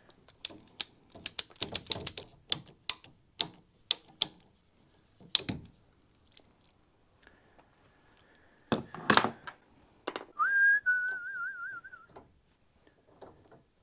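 A quick run of sharp clicks and knocks as PEX fittings and tools are handled, with a couple of heavier knocks. About ten seconds in, a person whistles a short wavering note for under two seconds.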